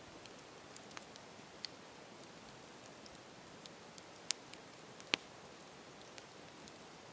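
Campfire burning: a soft steady hiss with scattered crackles and sharp pops from the burning wood, two of them louder and about a second apart past the middle.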